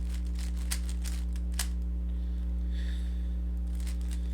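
Rubik's cube being turned quickly through an algorithm: a run of irregular plastic clicks and clacks. A steady low electrical hum runs underneath.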